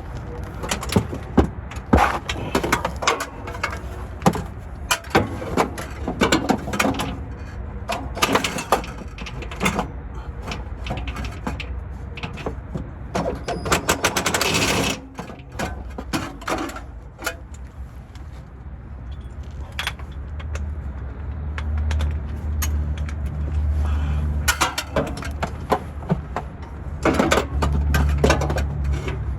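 Hand and power tools working on a transmission's bolts: scattered metal knocks and clanks, with a burst of rapid hammering, typical of an impact wrench, about halfway through. A low steady rumble comes in during the last several seconds.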